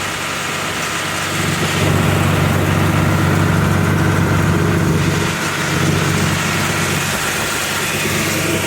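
Tractor engine running steadily, getting a little louder about two seconds in, while the repaired ear corn picker is moved to the storage shed.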